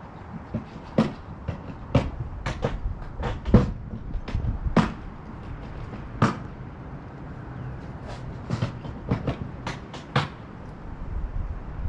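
Irregular knocks and clunks of equipment being handled and loaded, about twenty sharp hits at uneven intervals over a low steady background rumble.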